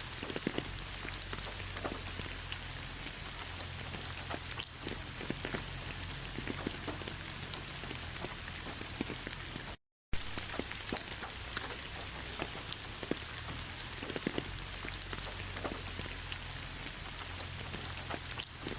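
Rain falling on a bed of fallen autumn leaves: a steady patter with scattered sharper drops ticking on the leaves. The sound cuts out for a moment about halfway through.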